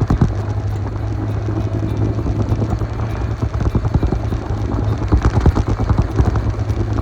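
Royal Enfield motorcycle engine running steadily while riding, under heavy wind buffeting on the microphone.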